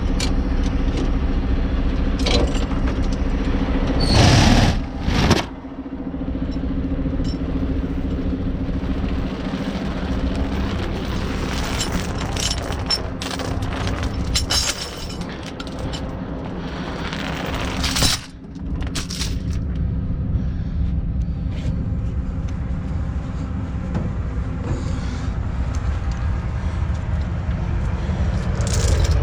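A heavy truck's diesel engine running steadily, with scattered clanks, a loud noisy burst about four seconds in and another near eighteen seconds.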